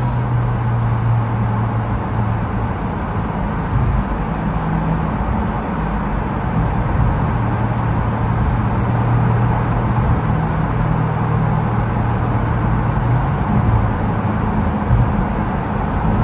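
BMW F11 550i's twin-turbo V8 through a Stainless Creations aftermarket exhaust, cruising at a steady pace with a continuous low drone over road noise.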